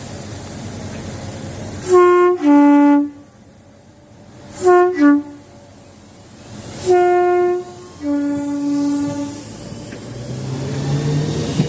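A train's two-tone horn sounding three times, each a high note dropping to a lower one: a long pair, a short quick pair, then another long pair. This is a driver giving tones to trainspotters. A train's low running sound builds near the end.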